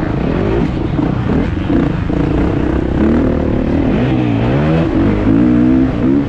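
Kawasaki KX450 four-stroke single-cylinder motocross engine revving hard under race throttle, its pitch rising and falling as the rider opens and shuts the throttle, with a sharp drop and climb about four seconds in, over rumble and wind noise.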